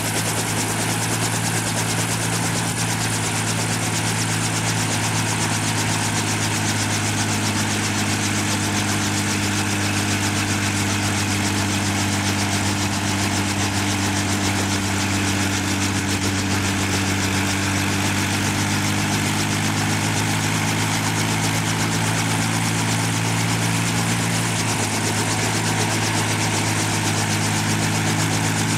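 An engine running steadily, a low hum of several tones that drift a little in pitch over a constant rushing noise.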